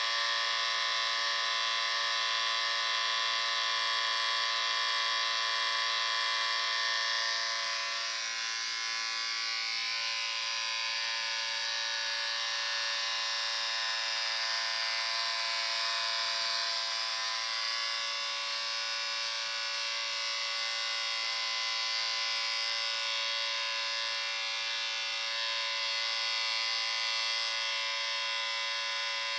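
Electric shaver buzzing steadily, a continuous hum with a slight dip in loudness about eight seconds in.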